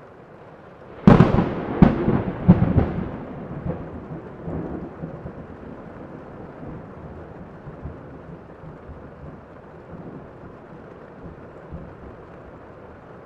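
A thunderclap over steady rain: a sudden sharp crack about a second in, two more cracks in quick succession, then a rumble that fades away over several seconds while the rain keeps falling.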